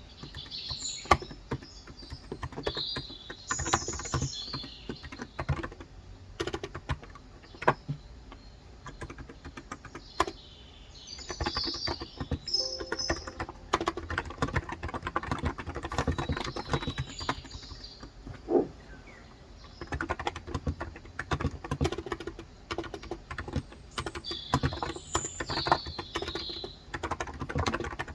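Steady, continuous typing on a COX Endeavor electro-capacitive (Topre-style) tenkeyless keyboard with 35 g switches. Birds chirp in short spells several times behind the keystrokes.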